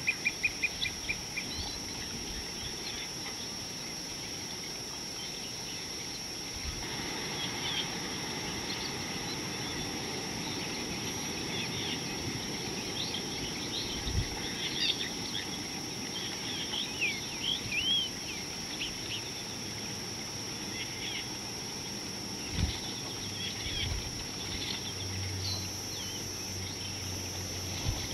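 Outdoor natural ambience with wild birds chirping: a quick trill of rapid high notes at the start, then scattered short chirps and calls through the middle, over a steady high-pitched tone. A few low thumps break in now and then.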